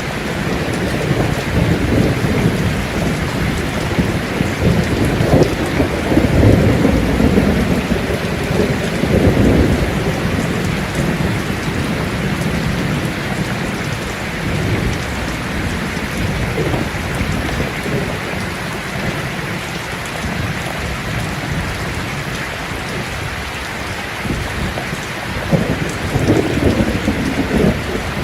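Steady rain falling, with rolls of thunder rumbling low underneath; the thunder swells from about five to ten seconds in and again near the end.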